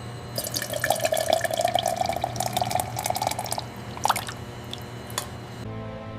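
Liquid splashing and dripping: a dense run of quick drips and trickling for about three seconds, then a couple of separate drips, over a low steady hum.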